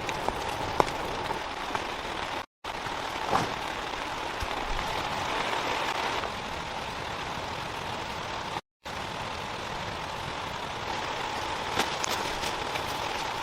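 Steady rain falling: a constant even hiss with a few sharp drop ticks. The sound cuts out completely twice, briefly.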